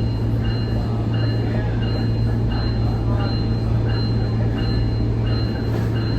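SMART diesel multiple-unit train running at speed, heard from inside: a steady low engine hum over the rumble of the wheels on the track. A faint short high tone repeats about twice a second throughout.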